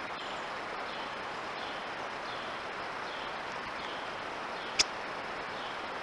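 Steady outdoor hiss with a faint bird call repeated about every two-thirds of a second as short, high, downward-sliding notes. A single sharp click a little before the end is the loudest sound.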